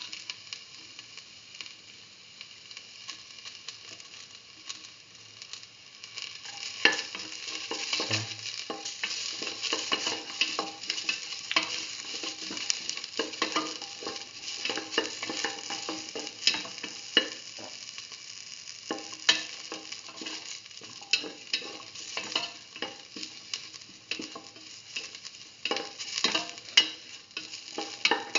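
Sliced onions, shallots and ginger sizzling in hot oil in a metal pan while a utensil stirs them, with frequent clicks and scrapes of the utensil against the pan that grow busier about seven seconds in.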